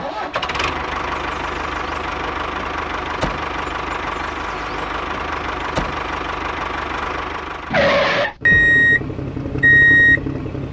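The miniature DIY walking tractor's drive running: a steady mechanical whirring. Near the end a short burst of noise, then two loud beeps like a reversing alarm, a little over a second apart, over a low hum.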